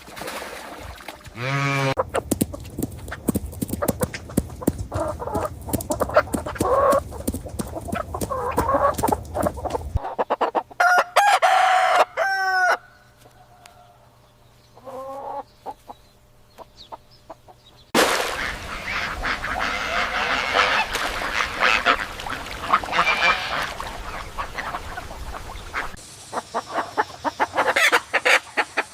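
A series of clips of farmyard poultry calling, with hard cuts between them: flocks of chickens clucking, and a few loud, drawn-out calls about eleven to thirteen seconds in.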